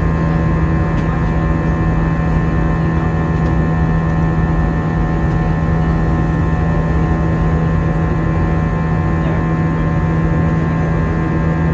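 Steady drone inside an Airbus A320 cabin in flight, engine and airflow noise with a strong low hum and fainter higher tones, holding even throughout.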